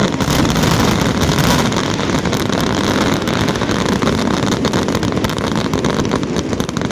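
Fireworks display going off in a dense, continuous barrage: a steady loud rumble thick with rapid crackling.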